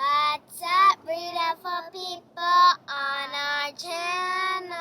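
A child singing in short phrases, with several held notes and brief breaks between them.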